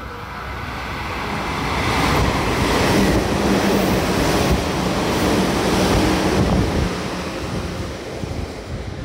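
Meitetsu electric train running past along the platform: a rush of wheel rumble and air that builds over the first couple of seconds, stays loud for about four seconds, then fades, with wind buffeting the microphone.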